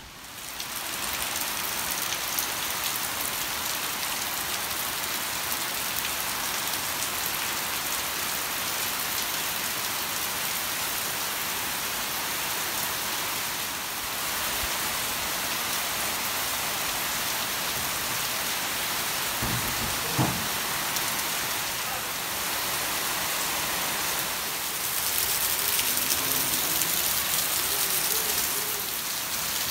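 Rain falling steadily, a continuous even hiss that grows a little louder near the end. One brief thump is heard about two-thirds of the way through.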